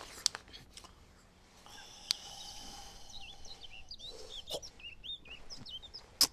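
Small bird chirping: a thin high whistle, then a quick run of short up-and-down chirps. A few light clicks, with one sharp loud click near the end.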